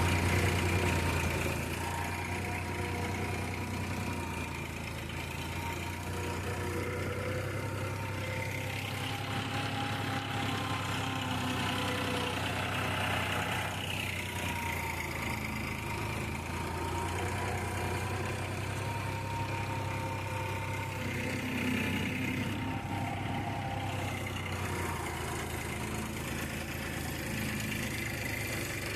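Farmtrac XP 41 tractor's diesel engine, fitted with an added turbo, running steadily at about 1500 rpm in second high gear.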